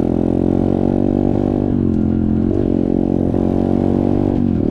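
Dirt bike engine running under way, its pitch dipping and picking up again about two seconds in and once more near the end.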